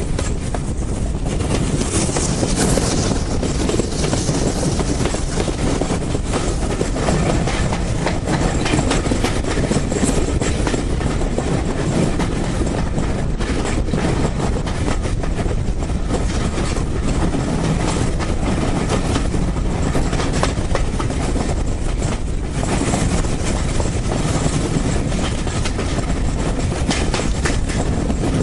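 Train running along the track with a steady rumble, its wheels clacking over the rail joints.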